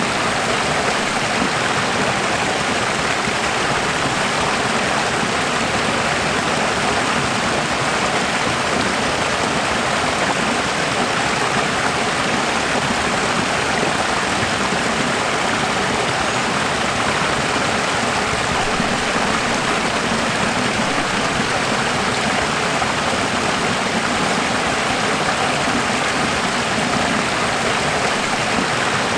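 Running water flowing steadily: an even, unbroken rush like a stream.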